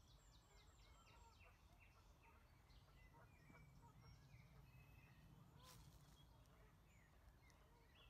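Faint small-bird chirping: quick runs of short, high, falling notes, thickest near the start, over a low steady rumble of outdoor background noise.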